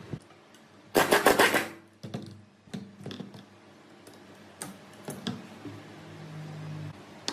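Workshop handling noise: a loud, quick rattle of many clicks lasting under a second, about a second in, then scattered single clicks and knocks.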